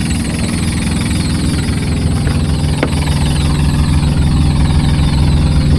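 Semi truck's diesel engine idling steadily, a low even rumble with a regular pulse.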